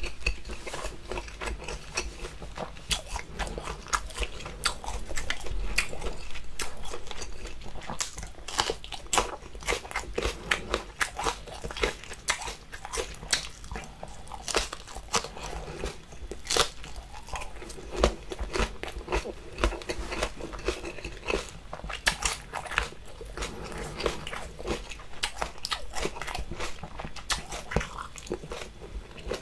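Close-miked chewing and biting of spicy braised octopus and fresh chili peppers, with many sharp, irregular crunches and clicks.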